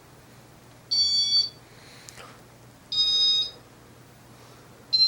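Ceiling fan's dry motor bearings squeaking in a high, pitched squeal about half a second long, three times at even two-second intervals as the fan turns: the bearings are worn and unfixed.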